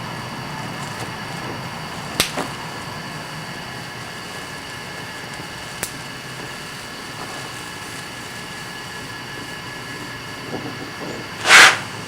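Oxy-acetylene welding torch hissing steadily while 4130 steel bushings are welded into door rod ends. A couple of sharp clicks come early, and near the end there is one short, loud rushing burst.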